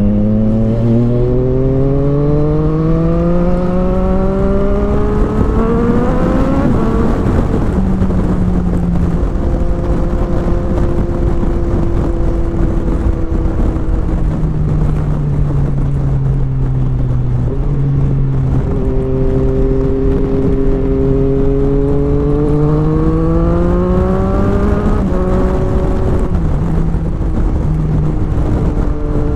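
Sport motorcycle engine accelerating, its revs climbing steadily for about six seconds before falling away. It then runs at a steady, slightly sinking pitch, climbs again for several seconds and drops back near the end.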